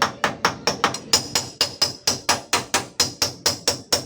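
Rapid, even tapping of a hammer on a dented steel car-body panel, about five strikes a second, each with a short metallic ring.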